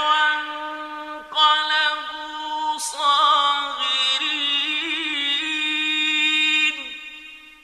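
A man's voice reciting the Quran in melodic tajweed style: three drawn-out phrases with short breaths between, the last a long held note with wavering ornaments that fades out near the end.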